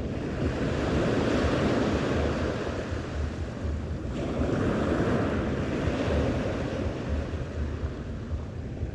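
Sea waves washing in, the surf noise swelling twice, with wind buffeting the microphone.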